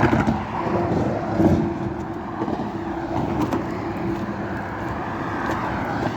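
Cars passing on a highway: a steady rush of tyre and engine noise that swells briefly about a second and a half in.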